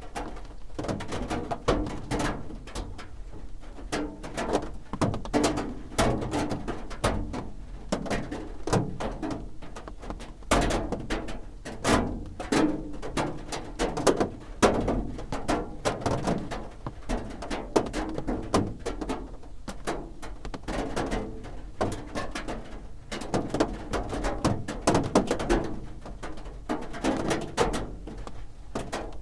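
Rain drumming on a roof: a dense, uneven patter of drops knocking and tapping.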